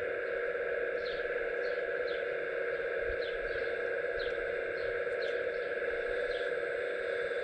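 Hydraulic pump of an RC model excavator running with a steady whine, with irregular short high chirps over it.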